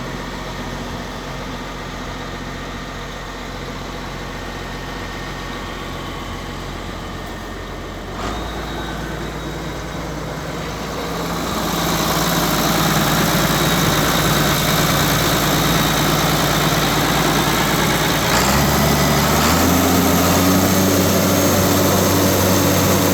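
John Deere 4450 tractor's six-cylinder diesel engine running steadily at idle, then throttled up: it changes note about eight seconds in, grows louder about halfway through, and its pitch steps up again near the end.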